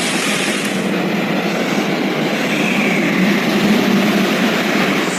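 Loud, steady rushing noise of fast-flowing floodwater.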